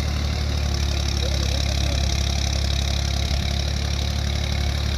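Massey Ferguson 240 tractor's three-cylinder diesel engine running steadily with a constant low drone.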